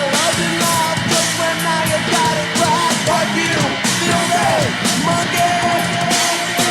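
Punk rock band playing loudly on a demo recording, with drum kit and electric guitar, the lead line bending in pitch.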